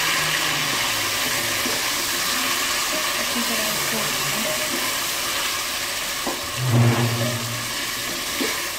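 Chicken and potatoes in a yogurt-and-spice marinade frying in an aluminium pot, a steady sizzling hiss as they are stirred with a wooden spoon. A brief low hum, the loudest sound, comes about seven seconds in.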